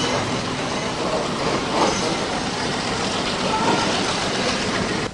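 Passenger train running on the rails: a steady loud rattle and rumble of the carriage with a few knocks, and faint voices under it. It cuts off abruptly at the end.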